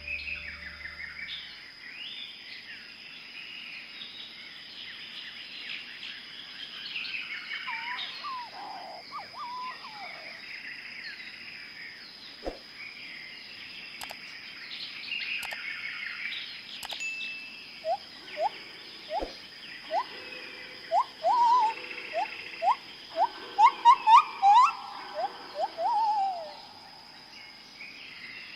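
Tropical forest ambience: many birds chirping and calling over a steady high insect drone. In the last third one bird gives a run of loud, rising whistled notes, about two a second.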